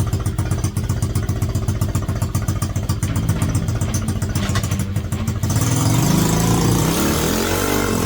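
A 125cc mini bike engine running at a steady idle, then revving up and down from about five and a half seconds in.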